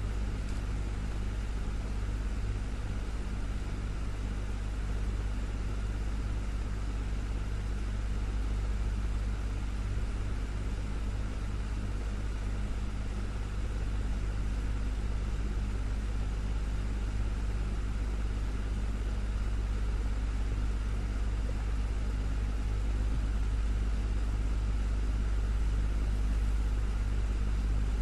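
Desktop fan running steadily: a constant deep hum with an even whir of moving air over it.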